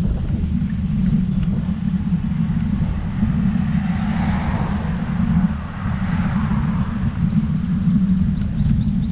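Steady wind rumble on the microphone of a moving road bike, with a car passing about four to six seconds in.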